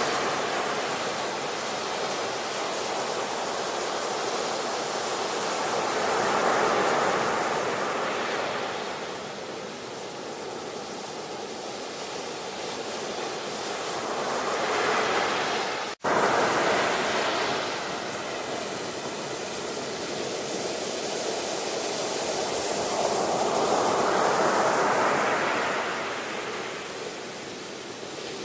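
Ocean surf: waves breaking and washing in, rising and falling in slow swells about every eight seconds. There is a sudden, brief gap in the sound about halfway through.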